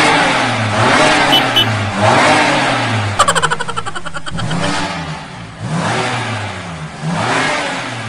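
Motorbike-style engine sound revving up and down over and over, about once a second, with a quick rattle of clicks about three seconds in.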